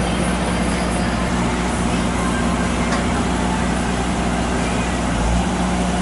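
A large engine running steadily with a constant low hum, under a wash of outdoor noise.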